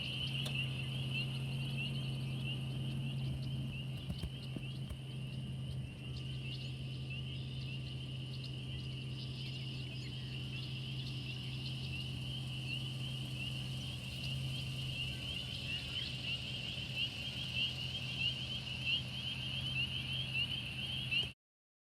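Dense, steady outdoor chorus of high-pitched calling animals, all at about one pitch, over a steady low hum. It cuts off suddenly near the end.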